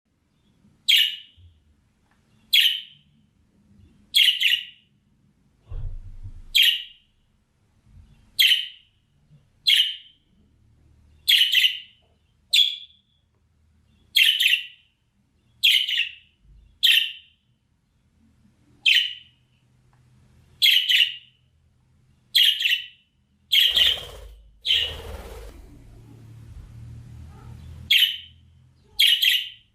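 Budgerigar giving short, sharp, high chirps over and over, one every second or two. Around three-quarters of the way through there is a brief stretch of rustling noise.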